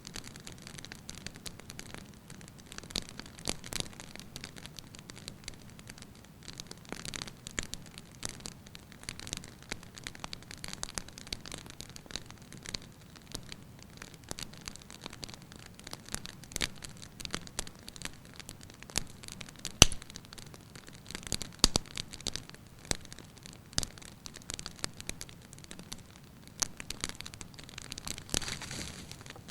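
Wood fire in a fireplace crackling, with irregular sharp pops and snaps over a soft hiss of burning logs; the loudest single pop comes about two-thirds of the way through.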